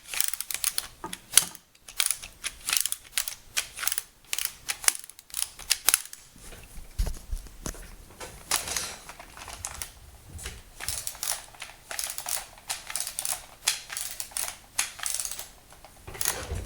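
Hard plastic toy fighter jet clicking and rattling as it is handled and its spin-feature button pressed: a long run of irregular, quick clicks with some scraping.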